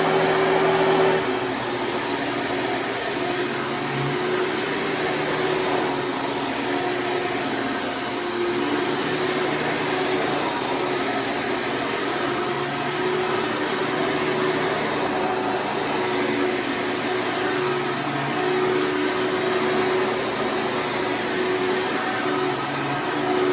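Hoover Preferred round-case vacuum cleaner running steadily while vacuuming, its motor holding one steady pitch. It is a little louder for about the first second, then settles.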